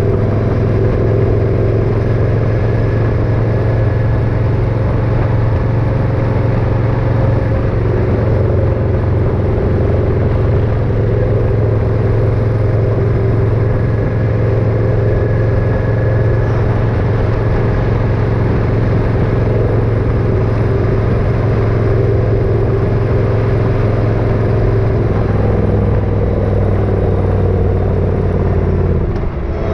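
Motorcycle engine running steadily at cruising speed, with wind and road noise. The engine sound dips briefly near the end.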